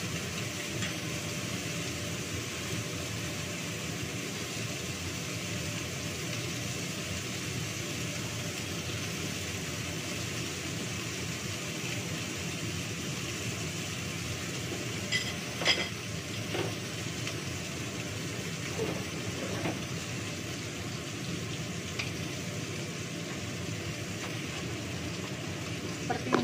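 Steady sizzling of food frying in a wok, with a few short clinks of utensils about halfway through.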